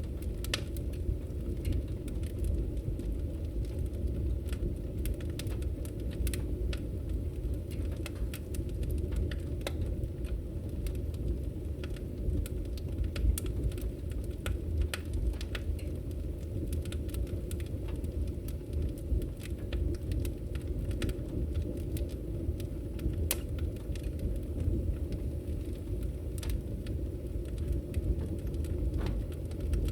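Wood fire crackling in a fireplace: a steady low rumble of burning logs with frequent irregular sharp pops and crackles.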